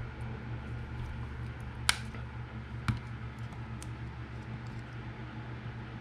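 Steady low electrical hum, with two sharp clicks about a second apart near the middle.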